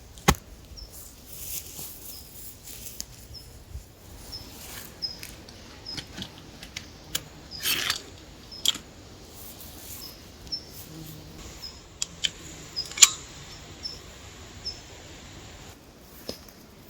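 Irregular clicks, snaps and short rustles, with one sharp click near the start and another about thirteen seconds in. Behind them a bird repeats a short high chirp about once a second.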